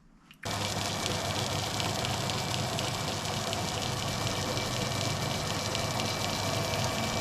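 Metal lathe running steadily: an even motor and gear hum with a thin constant whine, starting abruptly about half a second in.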